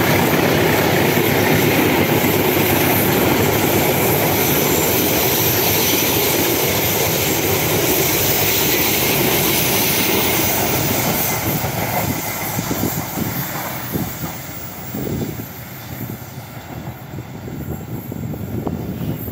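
A train passing close by: a loud, steady rush of wheels running on the rails that dies down after about eleven seconds as the train moves away.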